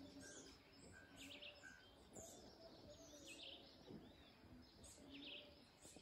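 Faint birds chirping all around, one of them repeating a short note several times in the first two seconds.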